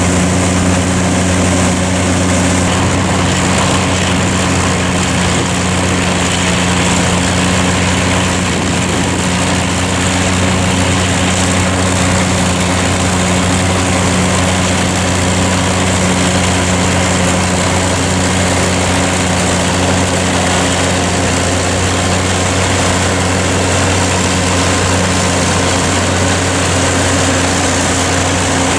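Massey Ferguson tractor's diesel engine running steadily while driving a forage harvester cutting silage: an even low hum with a constant rush of machinery noise over it, unchanging throughout.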